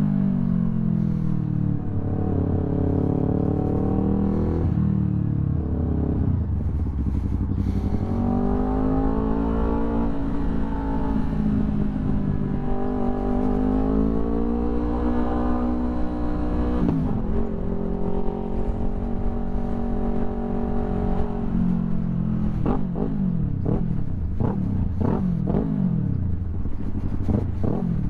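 2021 Yamaha YZF-R3's parallel-twin engine through an Akrapovic full exhaust, ridden in traffic. The note falls over the first couple of seconds, rises and holds through the middle, then rises and drops quickly several times near the end.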